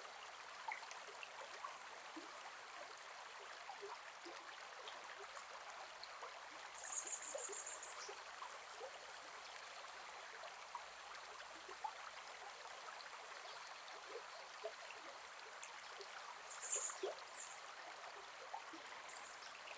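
Gentle forest river flowing steadily over stones, a soft even rush with small splashes and trickles. Two short high chirps stand out above the water, about seven seconds in and again near the end.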